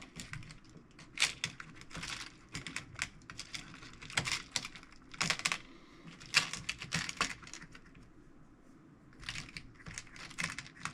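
Small screws and parts being picked through by hand: irregular light clicks and rattles in short clusters.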